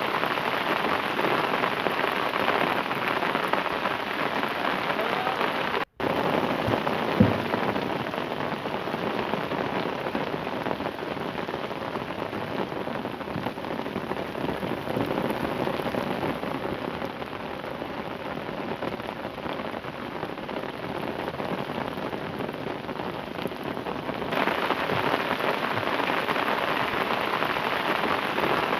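Steady rain falling on water, an even hiss with one sharp knock about seven seconds in. The sound cuts out for an instant about six seconds in.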